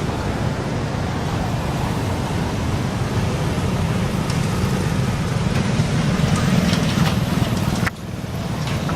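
Steady low rumbling background noise that drops abruptly for a moment near the end, then builds back up.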